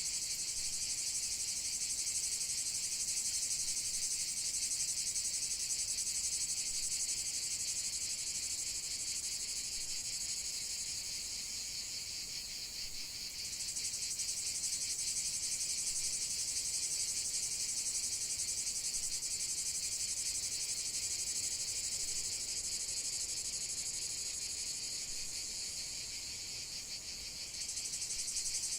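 A dense chorus of insects trilling in a continuous high-pitched chirr. It turns briefly softer twice, about midway and near the end.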